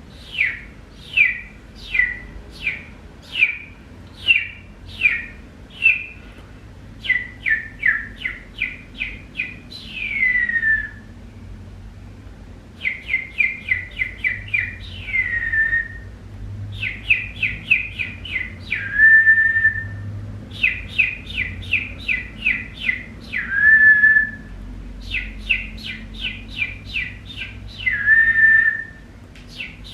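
Bird-like whistled song in repeated phrases: runs of quick down-slurred chirps, several a second, each run ending in a longer note that slides down and levels off.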